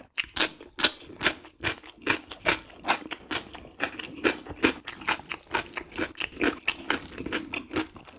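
Close-miked wet chewing of instant noodles: a quick, even run of sticky mouth clicks and smacks, about three to four a second.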